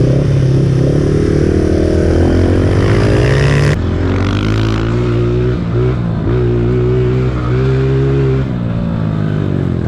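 Pit bike engine running, rising in revs over the first three to four seconds, then holding a steadier, lower speed with a few brief dips. A high hiss over it cuts off suddenly about four seconds in.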